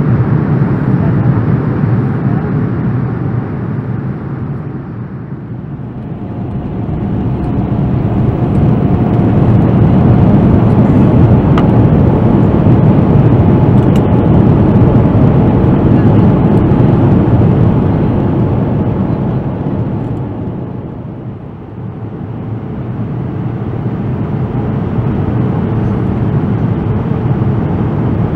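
Cabin noise inside a Boeing 787-9 with Rolls-Royce Trent 1000 engines during the approach to landing: a steady rush of airflow and engine noise. It swells louder for several seconds in the middle and eases off again.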